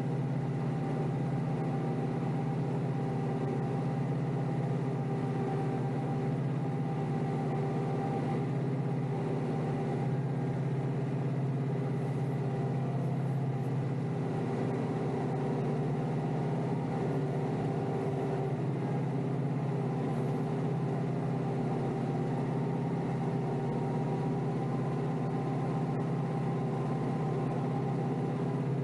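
Kioti DK5320SE tractor's diesel engine running steadily at a constant pitch while it pushes snow.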